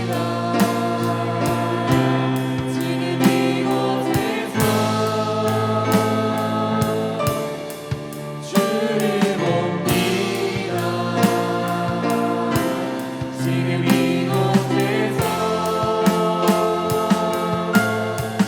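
Worship song played by a band, with group singing over sustained chords and a steady beat.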